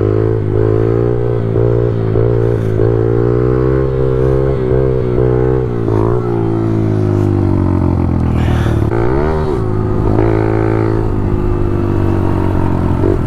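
Pit bike's small single-cylinder engine running, its revs rising and falling with the throttle, with a quick rev up and back down about two-thirds of the way through. A steadier low engine note carries on underneath.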